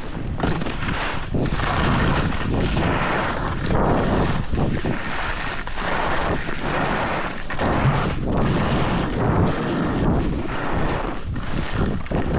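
Wind rushing over the camera microphone while riding fast down a ski slope, a gusty roar that rises and falls every second or so.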